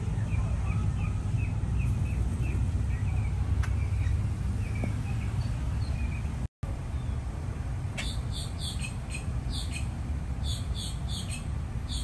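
Birds chirping over a steady low rumble of street traffic: a quick run of short chirps at first, then, after a split-second dropout, a run of sharper, higher chirps in clusters.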